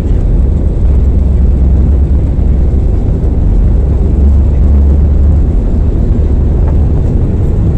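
Loud, steady low rumble of an airliner's jet engines and airframe heard inside the passenger cabin.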